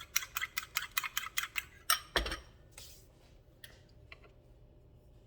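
Raw eggs being beaten in a bowl, the utensil clicking against the bowl about five times a second. The beating stops nearly two seconds in with two louder knocks against the bowl, then only a few faint ticks.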